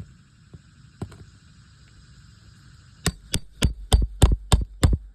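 Hammer striking a steel nail-removal tool seven times in quick succession, about three or four blows a second, the first two lighter: driving the tool to cut or pull a roofing nail from under an asphalt shingle.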